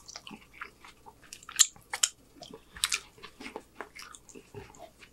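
A person chewing a mouthful of homemade chicken street taco on a corn tortilla: an irregular run of mouth clicks and smacks, with a few louder ones about one and a half to three seconds in.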